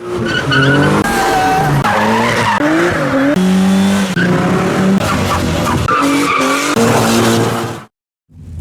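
Car engines revving hard, pitch climbing and falling again and again, with tyre squeal from cars being driven hard. The sound changes abruptly several times and cuts off suddenly about 8 seconds in.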